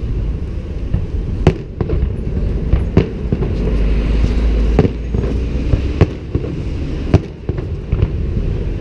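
Fireworks salute bursting: a string of sharp bangs, about five loud ones a second or so apart among fainter pops, over a steady low rumble.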